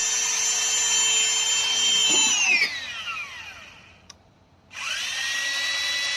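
Electric drill motor running at a steady high whine, then winding down in pitch after the trigger is released about two seconds in and falling nearly silent, with a small click. About five seconds in, it spins back up and runs steadily again.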